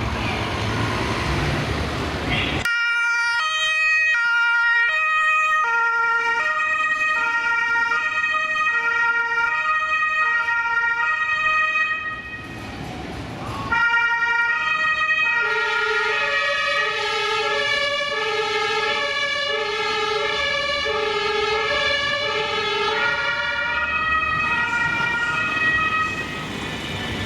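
German ambulance two-tone horn (Martinshorn) alternating high and low notes, each held about two-thirds of a second. The electronic horn starts abruptly a few seconds in; after a brief break about halfway through, the horn changes over to the compressed-air horn, which sounds the same two-note pattern until shortly before the end.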